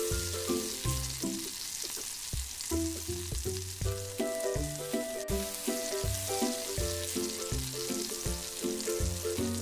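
Battered chicken pieces shallow-frying in hot oil in a pan, a steady sizzle, as the pieces are turned with metal tongs. Background music with a steady beat plays underneath.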